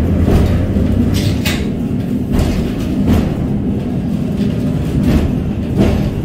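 Vintage tram running along its rails: a steady low rumble with several short, sharp clacks.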